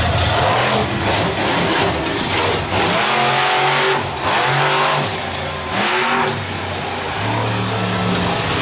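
Monster truck engine revving hard, its pitch rising and falling as the driver works the throttle, with short drops in between.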